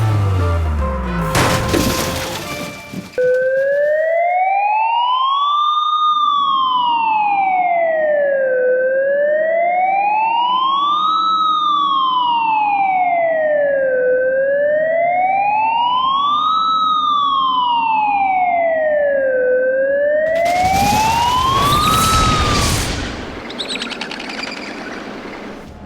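Police siren wailing, its pitch rising and falling slowly about three and a half times. Crashing noise comes just before it starts and again near the end.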